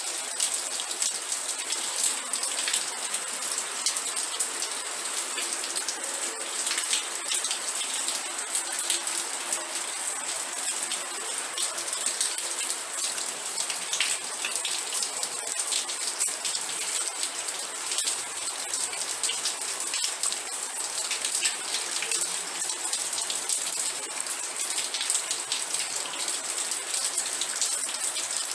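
Steady rain with many close, distinct drops ticking and pattering, evenly heavy throughout.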